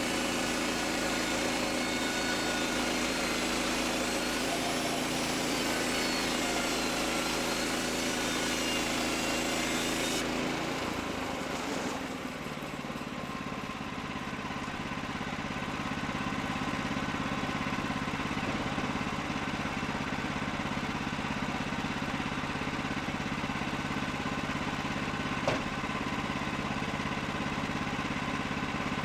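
Engine running steadily. About ten seconds in, its note changes and the high hiss drops away, and a single sharp click comes near the end.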